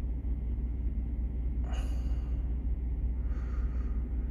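Steady low rumble of an idling semi-truck, heard from inside the cab. A man sighs about two seconds in and takes another short breath a little past three seconds.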